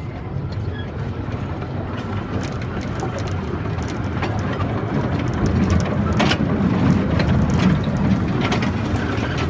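Tour train rolling along, with a steady low rumble and scattered rattles and clanks, growing slightly louder about halfway through.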